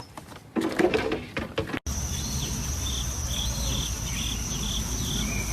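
A second or so of knocking and clatter, then from about two seconds in a steady high insect-like trill. Short chirps repeat over it about twice a second, with a low rumble beneath.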